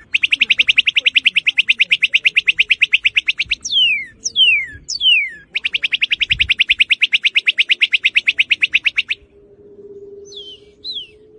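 Northern cardinal singing: sharp down-slurred whistles alternate with two long, rapid trills of about a dozen notes a second, each running several seconds. The song breaks off after about nine seconds, and a few short down-slurred notes follow near the end.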